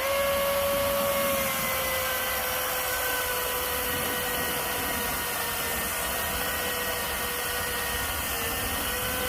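Cordless battery chainsaw running flat out and cutting through a log: a steady high electric-motor whine that starts abruptly and sags a little in pitch as the chain bites into the wood.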